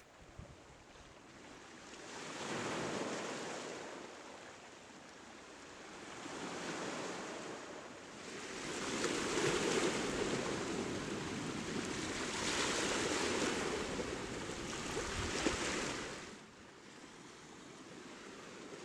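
Sea waves breaking and washing up a small beach, swelling and falling back several times, with the longest and loudest surge from about nine to sixteen seconds in before it dies down.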